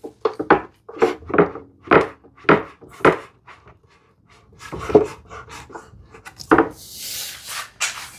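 Hardwood frame pieces knocking and clattering as they are handled and set down, a string of sharp wooden knocks about two a second, then a few more. A brief scraping slide near the end.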